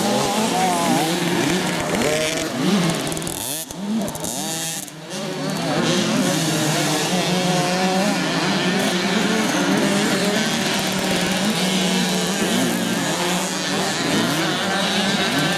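Several motocross bikes racing round the track, their engines revving up and down and overlapping as they pass. The sound drops away briefly about four seconds in, then builds again.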